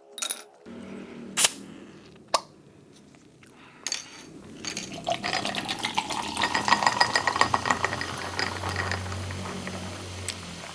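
A few clinks of a bottle against glass, then Bundaberg Lemon, Lime & Bitters soft drink poured into a glass, fizzing and crackling. The pouring tone rises in pitch as the glass fills.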